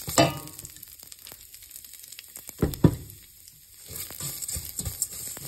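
Vermicelli frying in ghee in a stainless-steel pot, a light steady sizzle, while a spoon stirs and scrapes it. Two loud sharp clatters of the spoon against the pot come about a quarter second in and near three seconds in.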